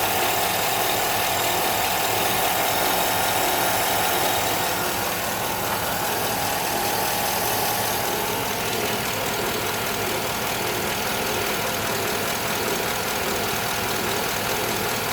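A 5.3-litre Chevy Vortec V8 idling steadily at operating temperature, with a steady higher tone over the engine that eases off about halfway. This is the low-pitched squeaking, almost a buzzing, that the owner worries about and thinks could be something electrical rather than a pulley.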